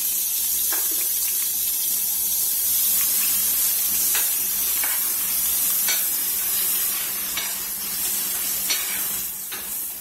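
Chopped green onion, garlic and ginger sizzling steadily in hot oil in a stainless steel skillet, while a spoon stirs them, knocking and scraping against the pan now and then.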